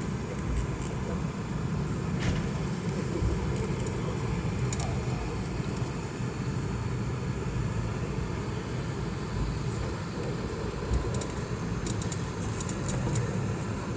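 Steady low rumble of a Boeing 717 airliner's rear-mounted Rolls-Royce BR715 turbofans, with a few faint light clicks or rattles scattered through.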